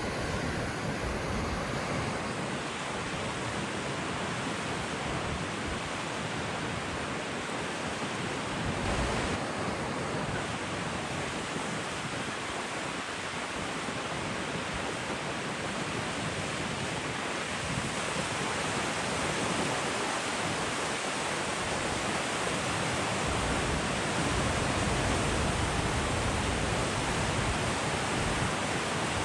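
Steady rushing of a large waterfall, the horseshoe-shaped Goðafoss, with wind gusting on the microphone, most strongly near the end.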